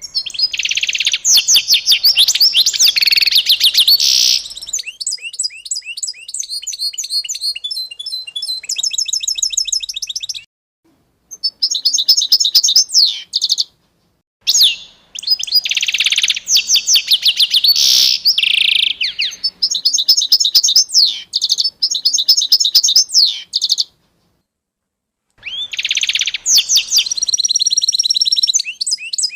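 Songbirds singing in fast, repeated trills and chirps, high-pitched, in several bouts broken by three brief, abrupt silences.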